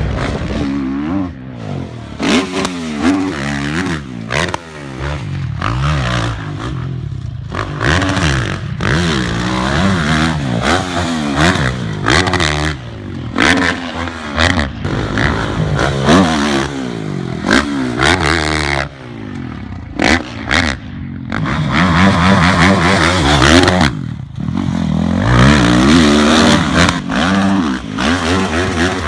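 Motocross dirt bike engines revving hard and shifting, their pitch rising and falling again and again, with some clatter.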